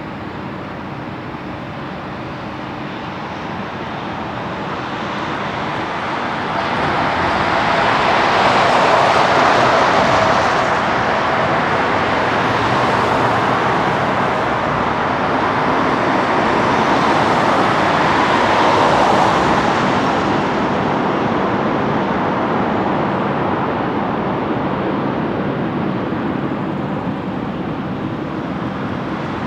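Twin turbofan engines of an Embraer E190 regional jet running, a steady rush that swells about a quarter of the way in, stays loud for about twelve seconds, then slowly eases.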